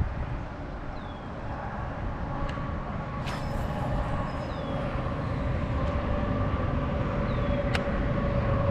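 Road traffic from a nearby expressway: a steady low rumble that slowly grows louder, with a steady hum that gets stronger toward the end, as of a vehicle drawing closer. A few faint short high chirps and light clicks sit over it.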